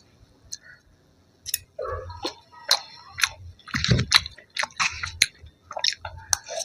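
A person chewing crunchy food close to the microphone. From about a second and a half in come irregular sharp crunches and wet mouth clicks, with a heavier crunch near the middle.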